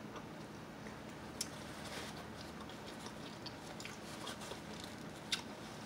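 A person chewing a mouthful of Italian sub sandwich, faint, with a couple of short clicks.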